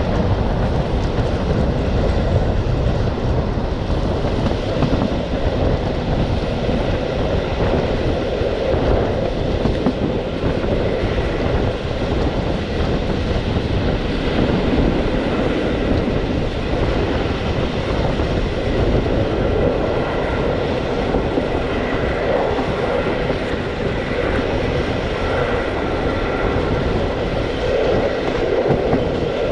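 Passenger train running along the track, heard from aboard: a steady rumble of wheels on rails with irregular knocking and clattering from the track.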